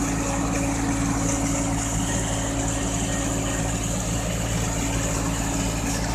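Tractor engine running steadily at a constant speed while it drives an irrigation pump, with an even hiss over the hum.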